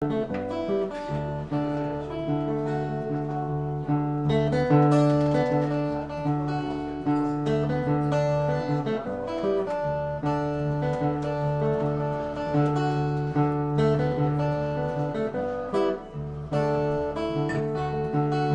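Acoustic guitar playing a blues instrumental introduction, picked notes over a steady bass line.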